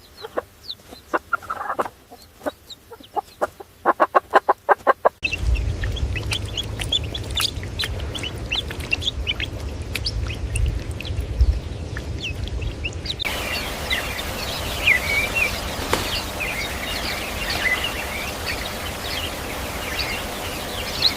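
Chickens clucking, with a quick run of loud clucks around four seconds in; then, after an abrupt change, chicks peeping continuously over a low rumble, the peeping growing denser in the second half.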